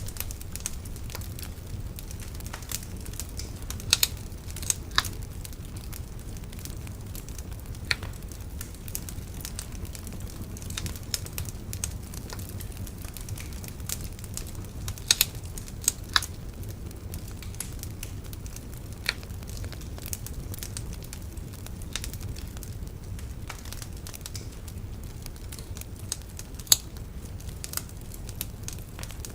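Wood bonfire crackling, with irregular sharp pops and snaps scattered over a steady low rumble; a few louder pops stand out, about four seconds in, around fifteen seconds and near the end.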